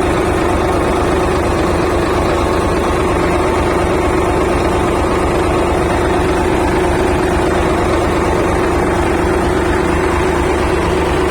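Bulldozer diesel engine running at a steady speed, its valve clearances freshly adjusted.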